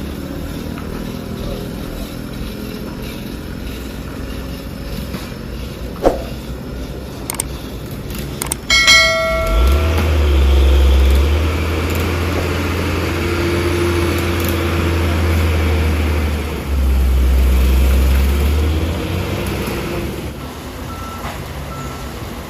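Heavy truck with a sharp knock, then a short horn honk, followed by its diesel engine running hard in a deep, loud drone for about ten seconds before it eases off near the end.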